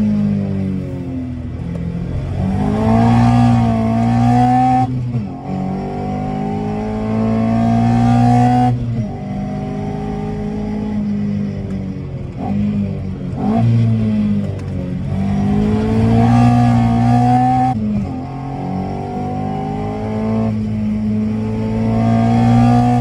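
Mazda MX-5 ND's 1.5-litre four-cylinder engine heard from inside the cabin under hard acceleration, its intake note opened up by an aftermarket 35 mm sound pipe and carbon airbox. The pitch climbs repeatedly and drops suddenly several times.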